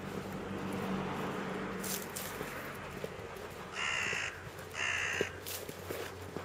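A bird cawing twice, about a second apart.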